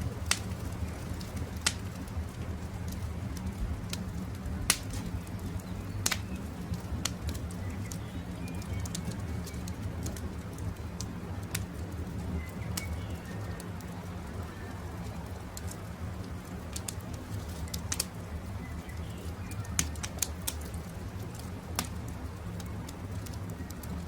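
Wood campfire crackling, with sharp pops scattered irregularly over a steady low rumble, and birds chirping faintly in the background.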